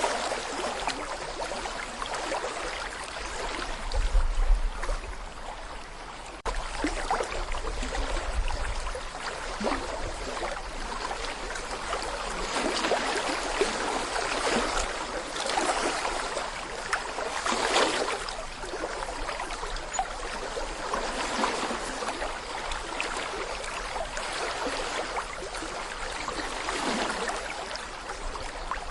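Small brook babbling over stones: a steady rush of water with gurgles that swell and ease. A low rumble comes in about four seconds in and again for a couple of seconds a little later.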